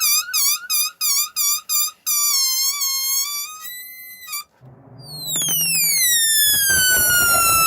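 Rubber balloon squealing as air escapes through its tightly stretched neck: a pulsing, warbling squeal for about two seconds, then a steadier squeal that cuts off about four seconds in. A second squeal starts high about five seconds in and slides down in pitch, then holds steady.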